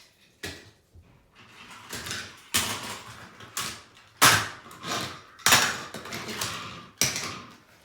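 Toy train engines and track pieces being handled and set down: a series of sharp clattering knocks, about seven of them, with short gaps between.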